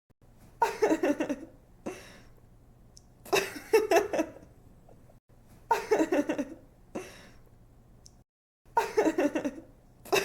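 A young woman giggling: four short laughs, each a run of quick 'ha' pulses followed by a softer breath, repeating about every two and a half seconds over a faint low hum.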